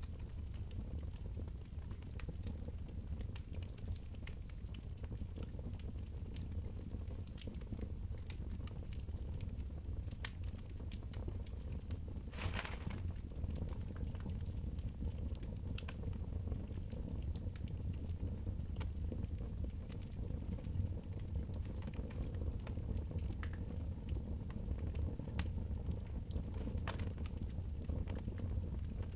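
Wood fire crackling in a fireplace, scattered small pops and snaps over a steady low rumble, with one brief louder hiss about twelve seconds in.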